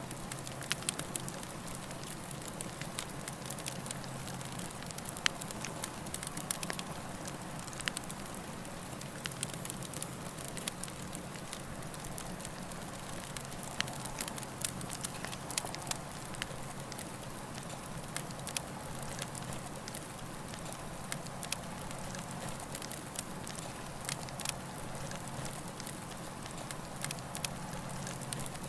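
Campfire burning: frequent irregular crackles and pops from the burning wood over a steady low rush.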